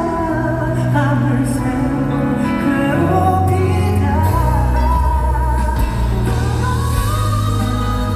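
Live pop ballad performance: a male vocalist singing a held melody over band accompaniment with a steady bass line, amplified through a concert sound system.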